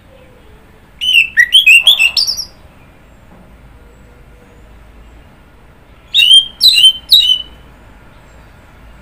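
Orange-headed thrush singing: a quick run of varied, sharply sliding whistled notes about a second in, then a shorter phrase of three notes about six seconds in.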